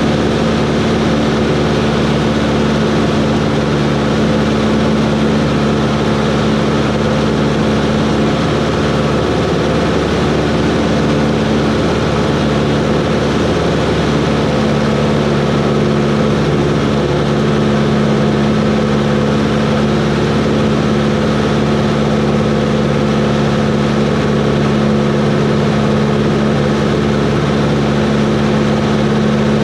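Cessna 140's piston engine and propeller droning steadily in flight.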